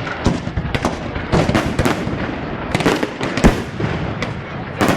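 Fireworks display: many crackling bursts and bangs in quick, uneven succession, with one louder bang about three and a half seconds in.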